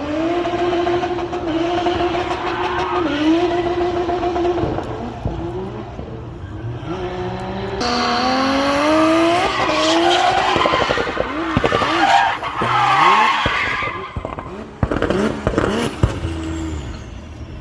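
Car engine revving hard, its pitch climbing and dropping repeatedly through gear changes, with tyres squealing and skidding, as in stunt or drift driving.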